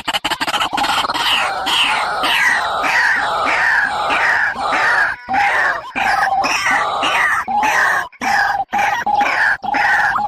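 A bird calling over and over, about two loud calls a second, each one sliding down in pitch, with a few brief breaks.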